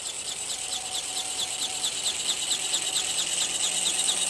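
Small motor of a flapping-wing model bird (ornithopter) whirring, its wing mechanism beating in a rapid, even rhythm of several strokes a second, growing slightly louder.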